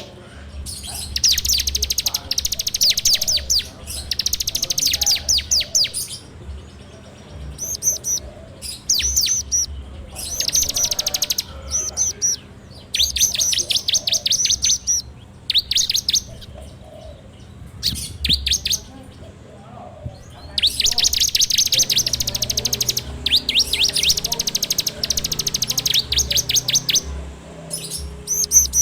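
Prinia (ciblek) singing a series of fast rattling trills, the 'ngebren' song: bursts of rapid, evenly spaced high notes, each lasting a second or two, with short pauses between them and a longer lull in the middle.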